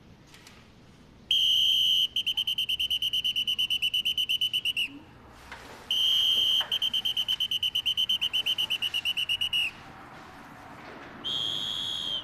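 Pea whistle blown hard in two long calls, each a steady blast that breaks into a rapid trill, then a short single blast near the end. This is the signal for a night-time emergency assembly at military training.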